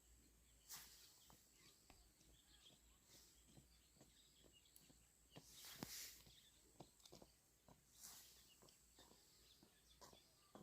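Near silence: faint outdoor ambience with scattered small clicks and three soft rustling swishes, the loudest about six seconds in.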